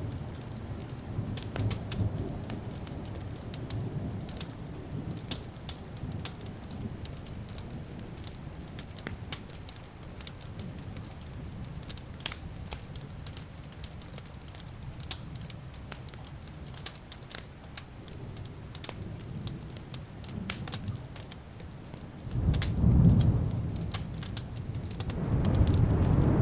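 Wood fire crackling with scattered sharp pops over low rolling thunder. The thunder swells near the end, twice.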